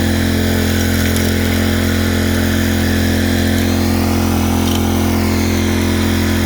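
Small gas engine of a Keene suction gold dredge running steadily at constant speed.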